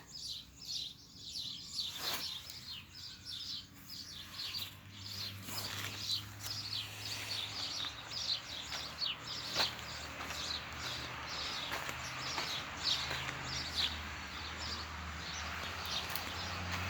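Small birds chirping, many short high chirps repeated throughout, over a soft hiss that grows louder partway through, with a few sharp clicks.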